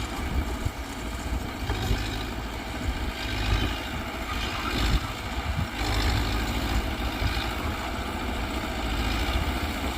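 Mitsubishi BD2G crawler bulldozer's diesel engine running with a deep rumble that swells and eases unevenly as the machine works.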